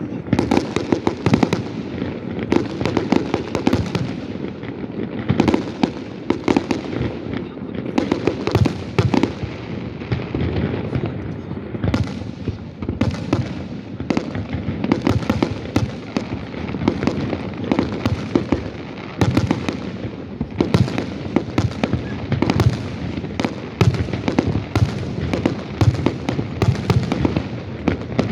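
Fireworks display: a dense, continuous barrage of sharp bangs, several a second, over a steady low rumble of booms.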